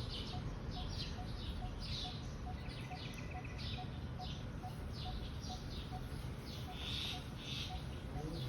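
Small birds chirping repeatedly in short, high notes, with a brief buzzy trill about three seconds in. A faint low pip repeats evenly throughout.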